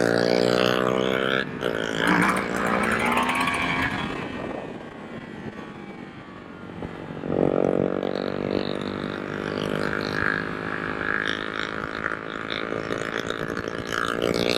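Motorcycle engine pulling hard through the gears, the pitch climbing and dropping at each shift in the first couple of seconds. It eases off through the middle, then pulls again and holds a steady drone at speed.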